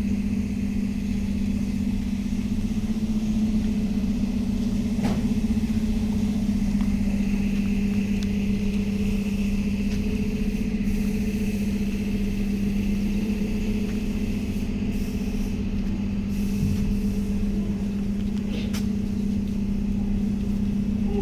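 A steady, unchanging motor hum with a constant pitch over a low rumble, like an engine or machine running at a fixed speed.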